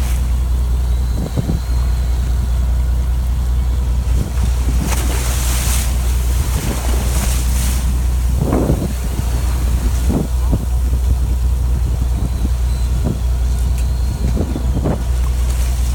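A fishing boat's engine running with a steady low drone. Wind gusts on the microphone come and go, with a few light knocks.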